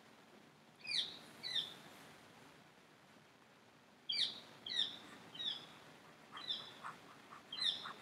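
A bird chirping in short, quick calls that slide downward: a pair about a second in, then a run of several from about four seconds in.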